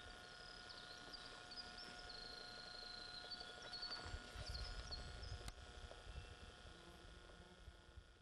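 Faint birdsong: several short high chirps and one brief trill, over a quiet marsh background. A low rumble rises about four seconds in and then fades.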